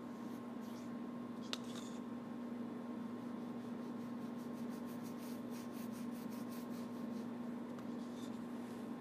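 Paintbrush strokes scrubbing on a stage backdrop, quick and even through the middle, over a steady low hum. A single sharp click comes about one and a half seconds in.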